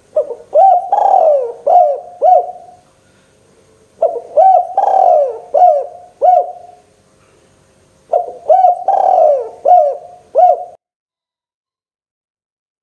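Spotted dove (tekukur) cooing: three phrases of several rising-and-falling coos, each about three seconds long, with short pauses between them. The sound then cuts off suddenly near the end.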